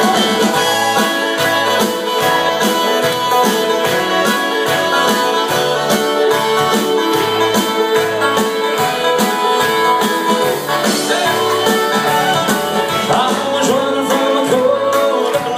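Country band playing an instrumental break, with guitar and a steady beat.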